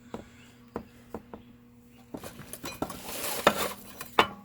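Metal tools and parts clinking and knocking on a workbench: a few separate clicks, then a busier clatter with a rattling scrape about three seconds in, and two sharper knocks near the end.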